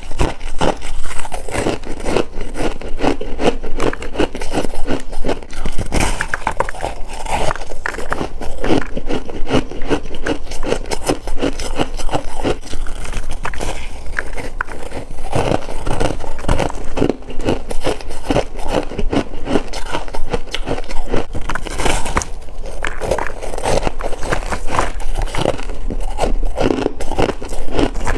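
Freezer frost crunching close to the microphone: a dense, continuous run of rapid crackles and scrapes.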